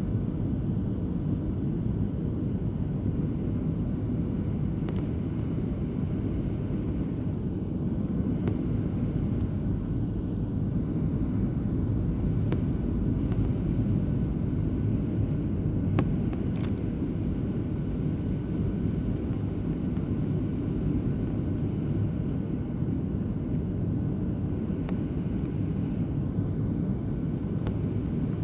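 Steady cabin noise of an airliner on approach: the low rumble of the engines and rushing air, heard from inside the passenger cabin, with a few faint clicks.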